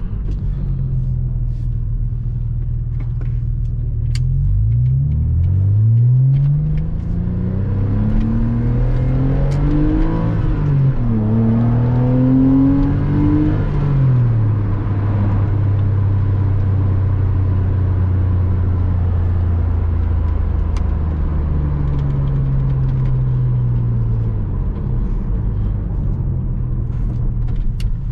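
Porsche Boxster 986's flat-six engine accelerating. It climbs in pitch from about four seconds in, dips briefly at a gear change near ten seconds, and climbs again. It then falls back and runs at a steady cruise, eases off, and starts to pick up again near the end.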